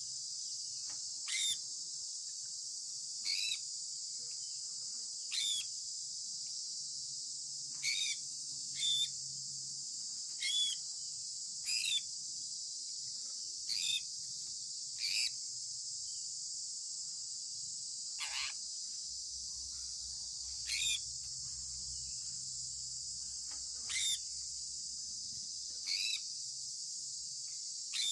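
Sun conure parrot giving short chirps every one to three seconds, with one longer call falling in pitch about two-thirds of the way through, over a steady high-pitched hiss.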